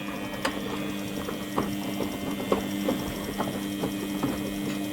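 Belt-driven front-loading washing machine running open with its covers off: a steady mechanical hum with irregular sharp clicks and ticks a few times a second.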